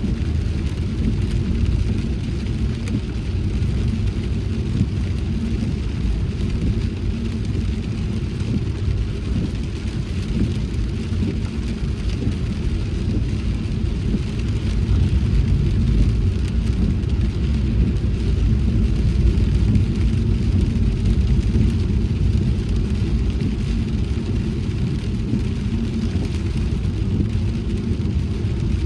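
Car driving on a wet road in rain: a steady low rumble of tyres and engine with a light hiss above it, a little louder about halfway through.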